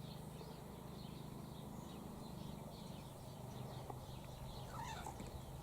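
Faint, scattered high bird chirps over a low steady hum.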